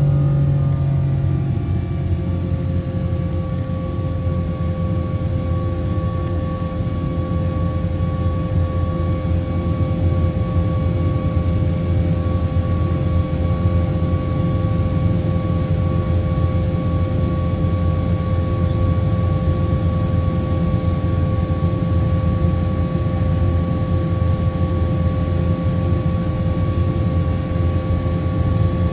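Boeing 777-200ER's jet engines running at high power during take-off: a steady, loud low rumble with two steady whining tones above it.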